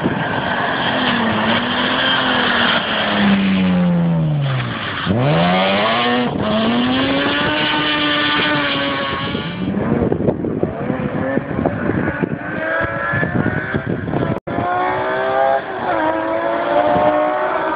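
BMW M3 rally car's engine revving hard as it drives past. Its pitch falls steeply about five seconds in and then climbs again, and in the second half it rises through several runs up the gears.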